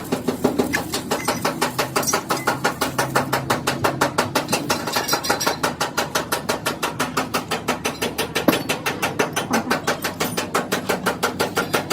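Rapid, evenly paced metal hammering, about five strikes a second, with one heavier blow past the middle.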